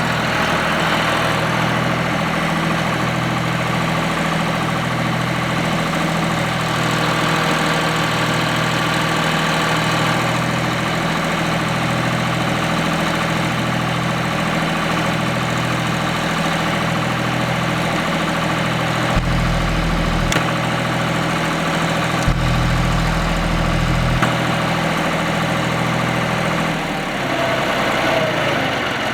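John Deere 1530 tractor engine idling steadily with a slow, even pulse. Its note shifts near the end.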